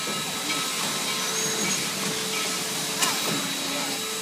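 Steam locomotive hissing steadily as it lets off steam, with a sharp click about three seconds in.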